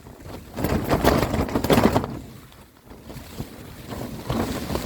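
Gale-force wind gusting against the Naturehike Cloudpeak 2 tent, heard from inside, with the tent fabric flapping and rattling. A strong gust hits about half a second in, eases off around the middle and builds again near the end.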